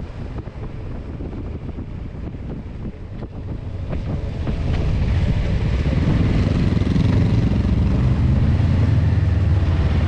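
Motorcycle engine running, growing louder about halfway through and then holding a steady drone.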